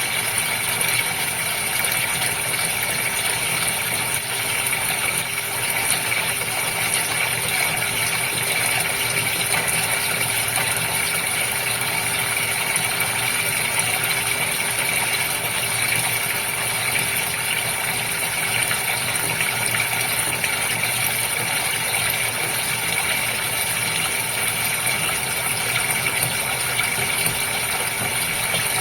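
Goldfish aquarium running steadily: water bubbling and splashing over the steady hum of its pump.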